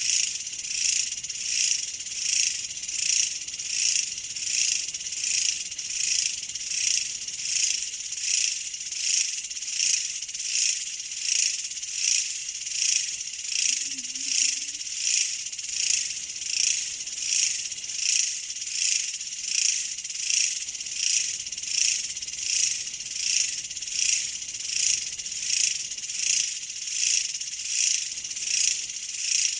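A dense, high-pitched insect chorus that swells and fades in an even rhythm a little under once a second.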